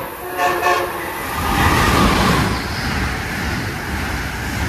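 An Amtrak train's horn sounds a short blast that ends under a second in. The train then passes through the station at speed close by, a loud, steady rush of wheel and air noise.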